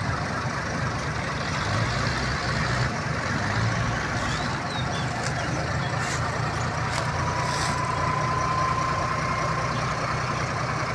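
Heavy diesel truck engine running steadily with a low rumble. About seven seconds in, a thin steady whine joins it and rises slightly in pitch.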